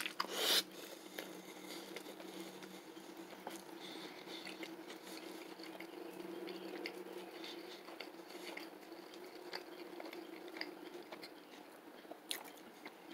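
A bite into a burger on a soft bun, then slow chewing with the mouth closed: faint, soft, moist clicks and squishes of a chewy wheat-based plant burger patty with lettuce.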